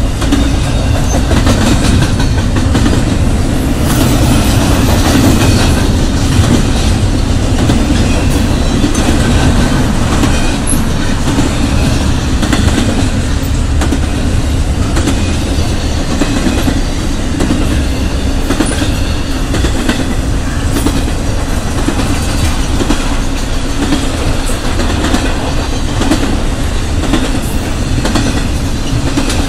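Intermodal freight train cars, double-stack container well cars and trailer-carrying flatcars, rolling past: a loud, steady rumble of steel wheels on rail, with a frequent clicking as the wheels cross rail joints.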